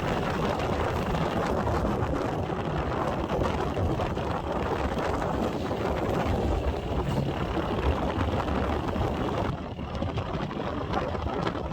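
Wind rushing over the microphone of a moving motorcycle, with road and engine rumble underneath; it eases a little about three-quarters of the way through.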